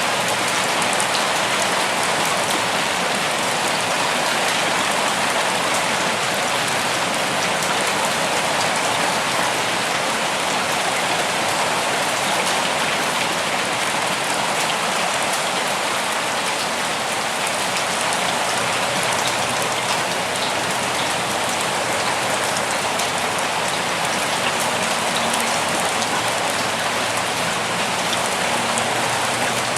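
Steady rain falling, an even dense hiss of drops with fine patter throughout.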